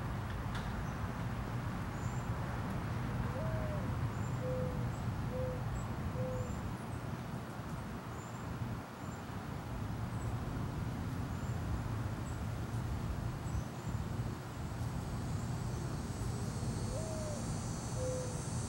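A bird cooing low, one rising-and-falling coo followed by three shorter coos, heard about three seconds in and again near the end, over a steady low rumble. Small high chirps come now and then, and a high insect buzz swells in the last few seconds.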